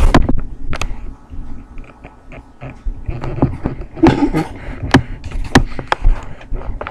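Scattered sharp knocks and clatter of kitchen cookware and utensils, about one every second, over a low rumble, with a brief vocal sound about four seconds in.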